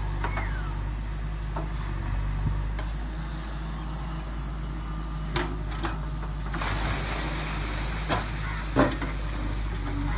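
JCB 3DX backhoe loader's diesel engine running steadily, with a few short, sharp knocks and clanks, the loudest near the end. A hiss comes in about two-thirds of the way through.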